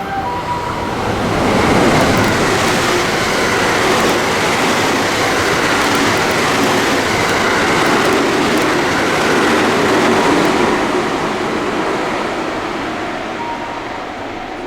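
Train passing through the station at speed without stopping: the noise of wheels on rails and rushing air rises about a second in, holds for several seconds, then slowly fades.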